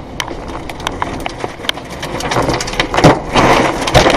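Violent storm wind with a rapid, irregular clatter of sharp knocks and cracks, as of debris striking and breaking. It grows louder through the second half.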